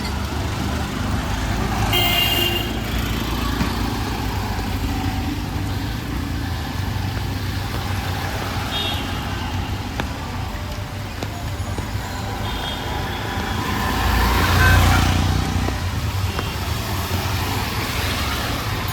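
Busy street traffic: vehicle engines running with a steady rumble, with short horn toots about 2 s, 9 s and 13 s in. A vehicle passes close about 14 to 15 seconds in.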